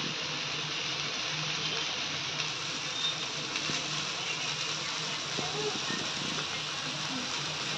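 Mutton seekh kebabs sizzling steadily in an oiled grill pan on a gas flame.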